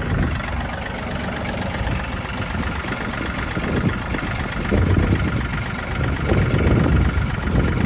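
John Deere tractor's diesel engine idling steadily while it warms up.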